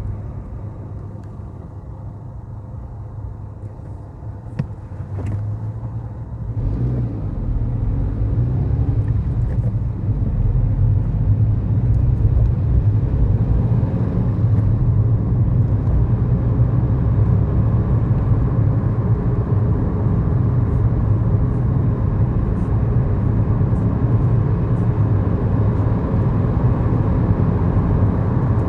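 A 2011 Kia Morning's 999 cc four-cylinder SOHC engine and tyre noise heard from inside the cabin while driving. It is quieter at first, with one sharp click about four seconds in, then grows louder from about seven seconds in and runs on steadily.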